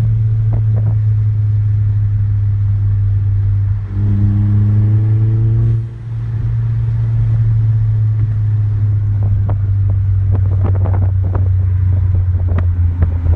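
Chevy Sonic's 1.4-litre turbocharged four-cylinder engine pulling on the road with a steady low drone. About four seconds in, a tone rises in pitch as it accelerates, then the sound dips briefly about six seconds in. A few light knocks come near the end.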